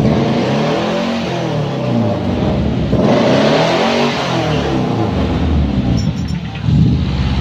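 Toyota Kijang engine being revved through a stereo (dual-outlet) aftermarket exhaust with a 431 header and HKS Hi-Power muffler. The revs climb and fall back about three times.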